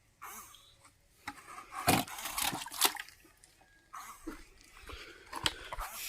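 Water splashing and sloshing in irregular bursts, with sharp splashes about two seconds in, near three seconds and again near the end.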